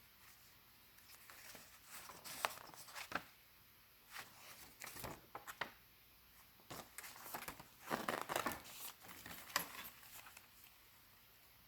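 Paper pages and tucked-in ephemera of a small ring-bound junk journal being turned and handled: faint, scattered rustles, crinkles and soft clicks, busiest about eight seconds in.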